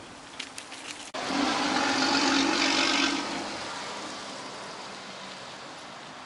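A car driving past close by: a loud rush of engine and tyre noise that comes in abruptly about a second in, peaks for a couple of seconds, then fades slowly as it moves away.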